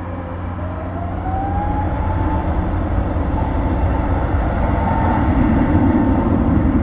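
Airbus A320neo's CFM LEAP-1A26 turbofans spooling up: a whine climbs in pitch over the first couple of seconds and then holds, over a deep rumble that keeps growing louder as thrust builds.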